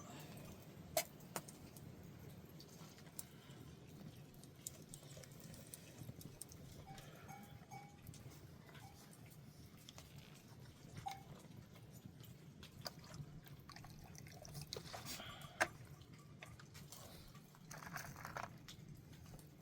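Faint sounds of a goat herd: bells clinking and scattered knocks and rustles over a steady low background.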